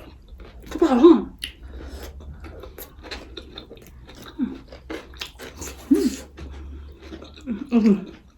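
Close-up chewing and biting of a chicken roll: wet mouth clicks and smacks. Brief hummed murmurs come about a second in, around six seconds and near the end.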